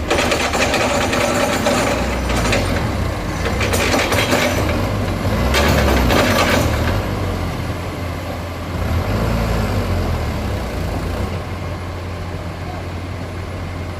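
Heavy diesel earthmoving machinery, an excavator loading soil into a dump truck, running steadily with a low engine hum. Three bursts of rushing, clattering noise come in the first seven seconds or so, then the engine runs on more evenly.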